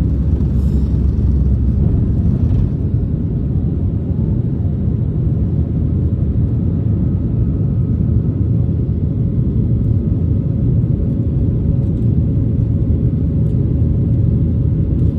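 Steady low rumble of a Boeing 737's jet engines and airflow heard inside the passenger cabin, with a faint steady hum above it.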